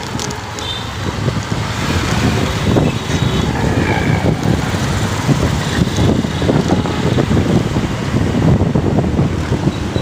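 Wind buffeting the microphone of a riding motorcycle, a loud, gusty rumble over the engine and road noise.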